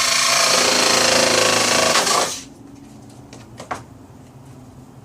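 Handheld power tool running loudly as it cuts, then switching off about two and a half seconds in.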